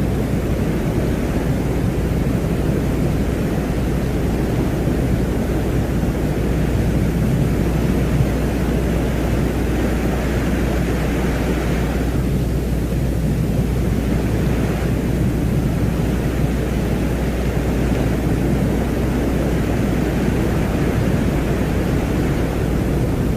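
Steady rumbling, wind-like noise drone presented as the sound of the planet Venus, heaviest in the deep low end, with a higher hiss that swells around the middle and dips briefly just after.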